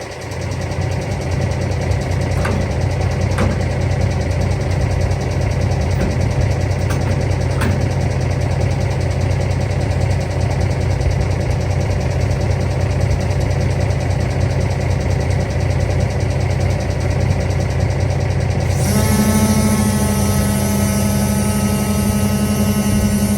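Semi truck's diesel engine idling steadily, with a few faint ticks. About 19 seconds in, the sound changes abruptly to a steady hum with a held tone.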